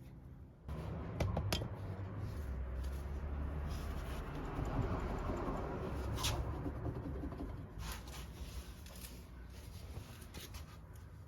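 Handling noises: irregular rubbing and scraping with a few sharp clicks, the clearest about a second and a half in and about six seconds in.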